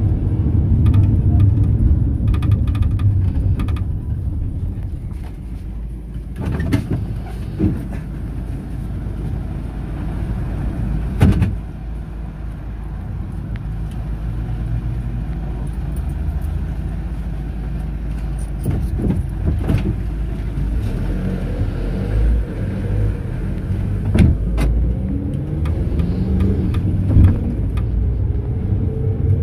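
Mercedes-Benz Sprinter minibus driving, heard from inside the cabin: a steady engine and road rumble with several short knocks and rattles along the way. Near the end the engine note climbs as the bus gathers speed.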